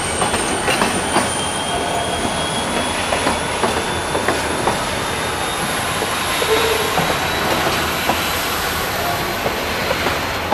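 Freight train of open gondola wagons rolling past, its wheels giving a steady high squeal that rises slowly in pitch, over the clatter and scattered clicks of wheels running on the rails.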